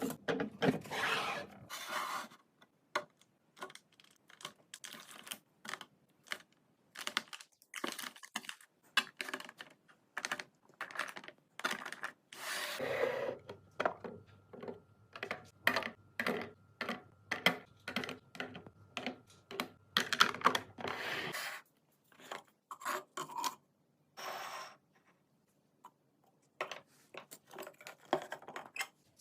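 Irregular clicks, taps and knocks, with some rustling, of food containers and packaging being handled and set down while a fridge is restocked. A faint steady hum runs underneath through the middle stretch.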